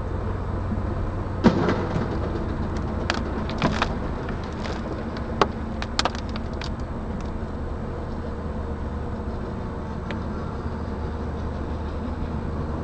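Car on the move heard through a dashcam: steady engine and road noise with a thin, steady high whine, and a handful of sharp knocks, the loudest about a second and a half in.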